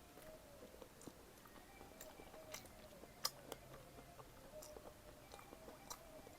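Close-miked chewing of bacon potato pizza: soft, wet mouth sounds with scattered faint clicks, one sharper click about three seconds in.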